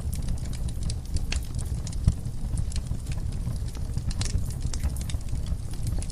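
Wood fire burning in a fireplace: a steady low rumble of flames with irregular crackles and pops from the burning logs, one louder pop about two seconds in.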